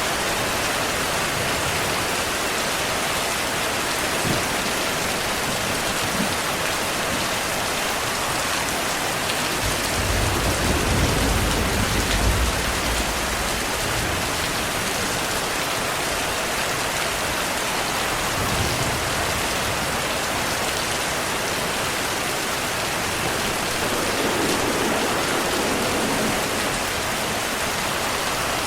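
Heavy, steady rainfall hissing down, with a low rumble of thunder swelling for a few seconds about ten seconds in.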